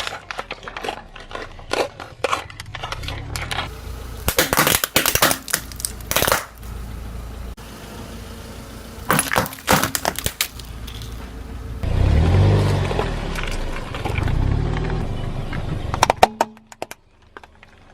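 Objects being crushed under a car's tyres: dense crackling, snapping and crunching in several spells, with a low rumble from the car about twelve seconds in and a few sharp cracks near the end.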